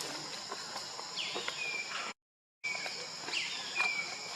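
Steady high-pitched insect drone with a call repeated every second or so: a quick downward sweep that settles into a short held whistle. Faint knocks are scattered through it, and the sound cuts out completely for half a second just past the middle.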